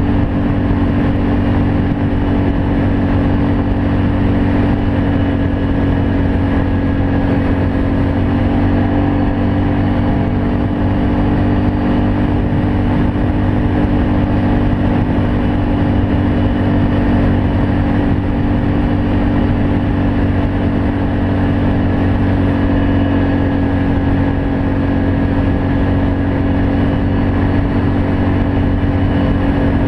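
Can-Am Outlander 500 ATV's Rotax V-twin engine running through an aftermarket Yoshimura exhaust at a steady engine speed, its pitch holding level throughout.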